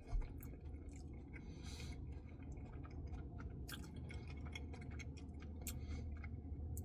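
Quiet chewing of a cookie dough Blizzard, with scattered wet mouth clicks and smacks over a low steady hum.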